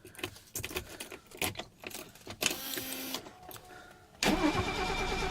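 Clicks and knocks from the key and controls, a brief whir, then about four seconds in the starter motor starts cranking the cold M110 2.8-litre straight-six with a steady rhythmic churn. This is a cold start in freezing weather, and the engine has not yet fired.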